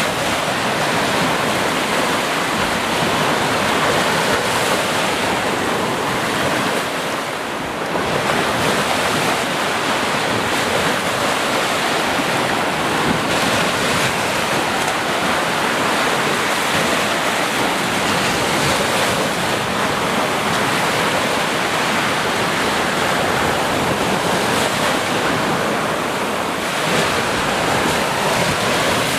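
Ocean waves breaking and washing on the shore in a steady dense rush, with a brief lull about seven seconds in.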